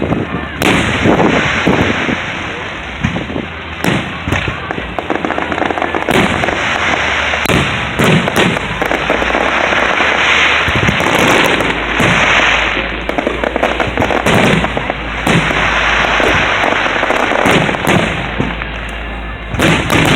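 Aerial fireworks bursting in quick succession, a dense run of overlapping booms and crackles with no pause.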